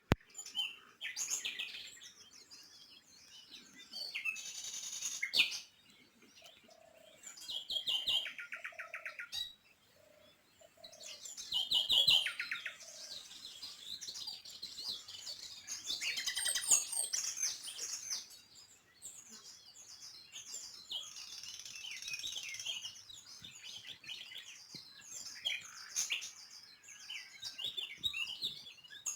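Small birds chirping and twittering in overlapping bursts, with a fast trill about eight seconds in.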